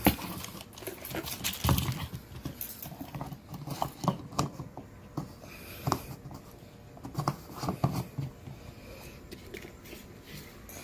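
Scattered light clicks and knocks at uneven intervals, as of things being handled and set down.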